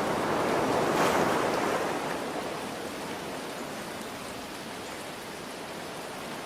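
Ocean wave breaking and washing out: the surf swells to its loudest about a second in, then eases into a steady hiss. Rain falls steadily underneath.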